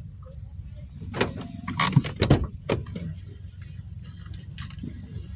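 Ambulance engine idling with a low hum, and a run of clunks and knocks between about one and three seconds in as a door is opened and handled.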